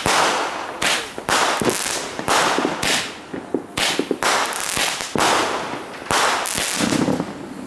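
Consumer fireworks going off in a rapid, uneven series of about a dozen sharp bangs, with crackling and hiss trailing each report.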